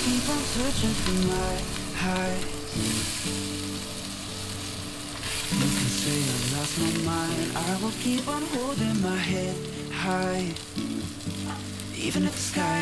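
Potato chunks sizzling steadily as they fry in oil in a stainless steel pot, being stirred and turned. Background music with a stepping melody plays over it.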